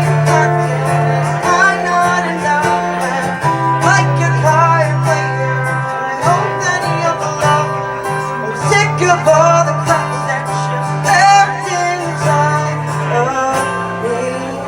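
A live song: a voice singing over guitar accompaniment, with low bass notes held for a second or two at a time.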